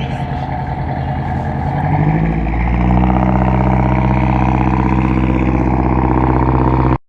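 Water bus engine speeding up, then running at a steady drone from about three seconds in. It cuts off suddenly near the end.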